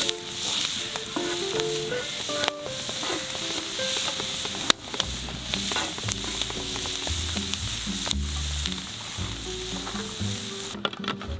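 Food sizzling as it fries in a pan, a steady hiss with a few sharp clicks. Background music with a melody and a bass line plays over it, the bass coming in about halfway through.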